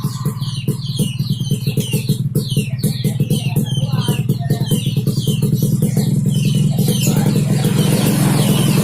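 Yamaha RX King's two-stroke single-cylinder engine running with a rapid pulsing exhaust beat, growing steadily louder and rising into a rev near the end.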